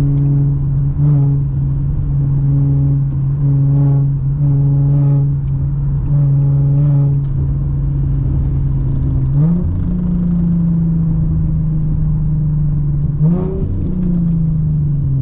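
Infiniti G37x's 3.7-litre V6 engine and exhaust droning steadily under way, then revving up sharply about two-thirds of the way through and holding the higher note. It rises again briefly near the end and then falls off.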